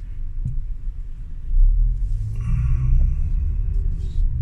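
Low rumble of the Mazda CX-8 creeping up a steep incline, heard from inside the cabin; it swells about a second and a half in as the car climbs.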